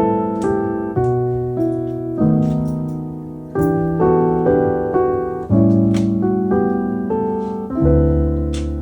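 Solo piano music, a slow melody of struck notes and chords, each note starting sharply and fading.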